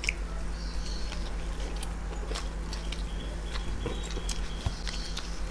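Egg rolls being bitten and chewed close to a table microphone, with wet mouth clicks and lip smacks scattered through, over a steady low electrical hum.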